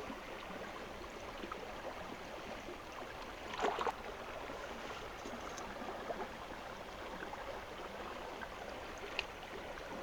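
Small mountain stream running steadily, with a short louder noise about three and a half seconds in.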